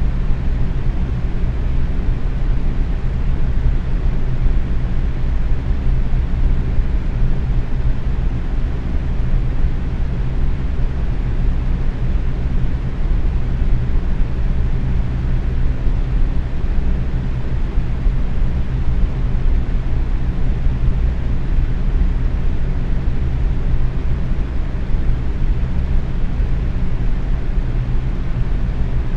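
Box fan running steadily at medium speed: an even whir of moving air over a low hum, heaviest in the low end and unchanging throughout.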